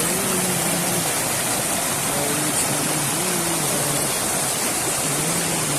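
Steady rush of a fast mountain stream, even and unbroken.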